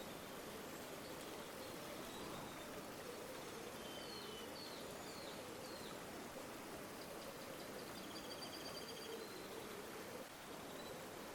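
River water flowing steadily, with small birds calling over it: a few short chirps about four seconds in and rapid trilled calls in the second half.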